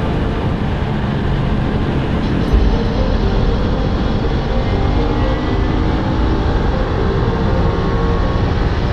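Sport bike engine running steadily at riding speed under heavy wind rush, with a brief low thump about two and a half seconds in.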